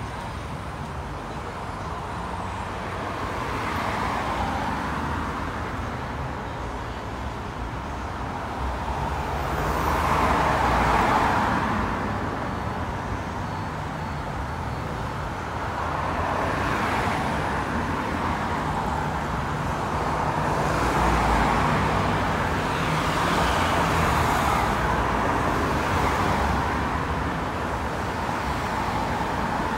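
Road traffic: a string of motor vehicles passing one after another, each swelling up and fading, the loudest about a third of the way in, with a low engine hum underneath in the middle stretch.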